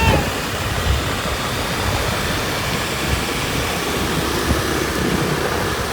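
Wind rushing over the microphone with engine and road noise from a moving motorbike in traffic: a steady rushing hiss over a low rumble. A short high pitched tone sounds right at the start.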